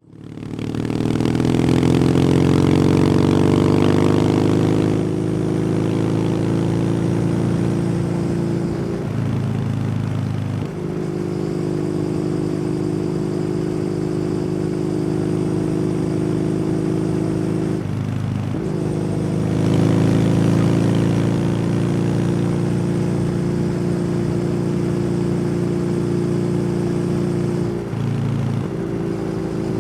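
Kawasaki W800 air-cooled parallel-twin engine through an aftermarket SC Project exhaust, under way on the road. It pulls up in pitch over the first few seconds, then runs at a steady cruise. Three times, about a third of the way in, near two thirds, and near the end, the note briefly breaks off and picks up again.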